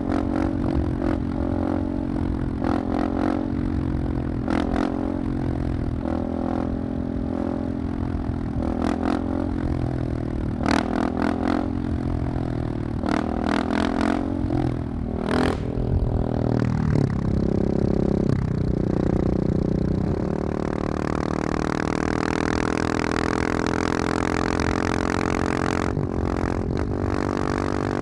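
Husqvarna 701's single-cylinder engine through a loud Wings aftermarket exhaust, running with many short sharp cracks over the first half. About two-thirds of the way in the revs rise and then hold steady at a higher pitch.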